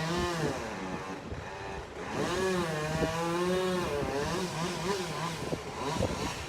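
Two-stroke chainsaw running at full throttle in the tree, in two spells of cutting: a short one at the start, then a longer one from about two seconds in to near the end. The engine's pitch sags and recovers as the bar bites into the wood.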